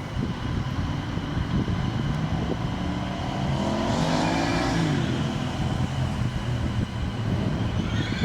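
Vehicle passing with a steady rumble, its motor note rising and then falling in pitch about four seconds in.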